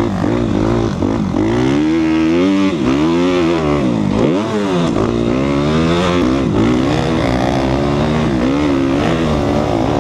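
Four-stroke Suzuki RMZ250 dirt bike engine revving up and dropping back again and again as the throttle is opened and rolled off through the track's turns and jumps. Its pitch rises and falls several times.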